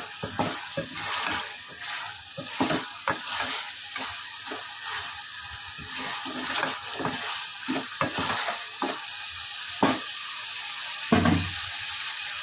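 Mutton in red chilli masala frying in an aluminium pressure cooker pot with a steady sizzle, while a spatula stirs and scrapes against the pot in short strokes. A sharper knock comes a little before the end.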